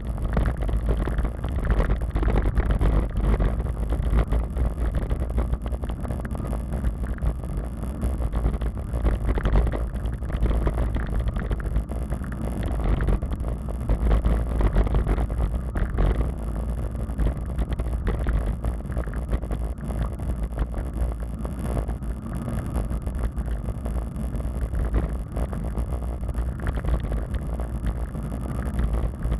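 Wind buffeting the microphone of a camera carried on a moving bicycle: a steady, rumbling noise with tyre and road noise mixed in.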